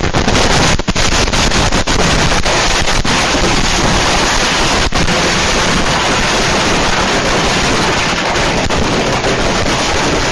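Fireworks exploding in a rapid, continuous barrage, dense bangs and crackling with no break, as a whole stash of fireworks goes off at once by accident.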